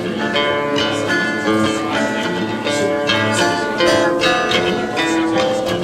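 Acoustic guitar music played live, a steady run of plucked notes and chords without singing.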